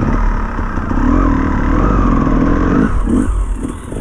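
Enduro dirt bike engine running under changing throttle, its pitch rising and falling, easing off briefly about three seconds in.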